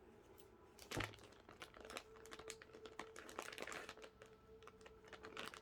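Packaging of a diamond painting kit being handled and opened, with a single knock about a second in, then faint, irregular crinkling and crackling.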